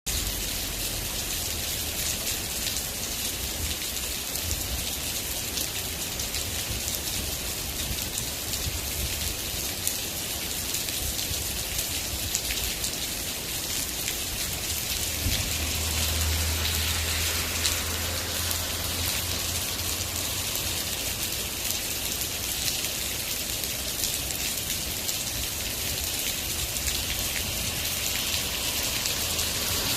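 Steady rain falling and pattering on surfaces, a dense even hiss dotted with individual drips. A low rumble underneath swells for several seconds in the middle.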